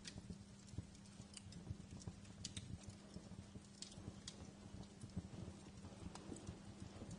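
Wood fire crackling: irregular small pops and snaps, a few of them sharper, over a faint steady low hum.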